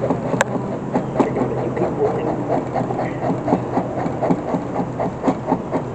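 Steady hum of honeybees at an open hive during an inspection, with frequent light clicks and taps.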